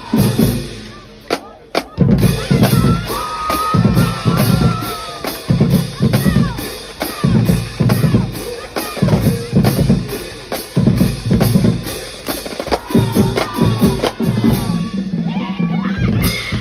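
A drum kit being played, with bass-drum and snare hits in clusters over a steady fast tick, and some sliding pitched sounds above it.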